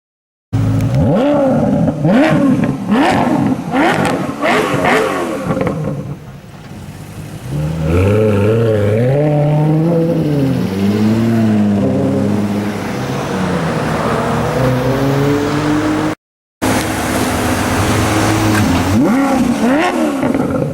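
Maserati Quattroporte GTS's 4.7-litre V8 through a Larini sports exhaust. It revs in a series of quick rises and falls for the first few seconds, then swells up and down more slowly. After a brief break about 16 s in, it runs steadily with a few more sharp revs near the end.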